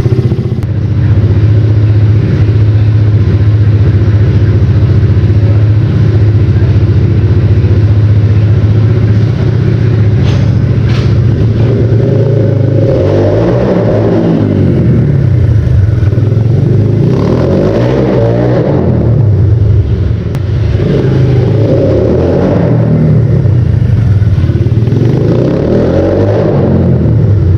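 Supermoto motorcycle engine running at a steady speed for about the first twelve seconds, then revving up and dropping back repeatedly, every three to four seconds, as the bike is ridden.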